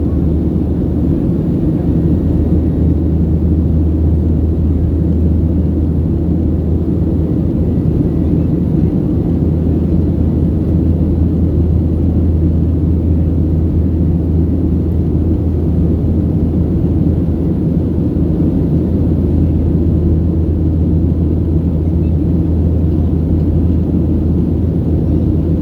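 Boeing 737-700 cabin noise in flight: the steady low drone of its CFM56-7B turbofan engines mixed with rushing air, heard from inside the cabin.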